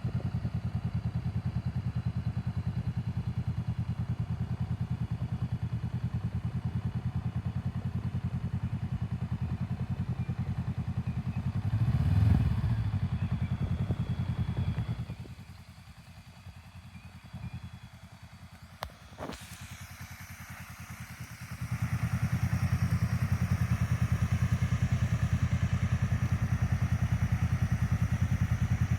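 2023 Honda Rebel motorcycle engine idling with a steady low pulse, rising briefly about twelve seconds in. The engine sound drops away about fifteen seconds in, a single sharp click comes a few seconds later, and the engine is running again from about twenty-two seconds.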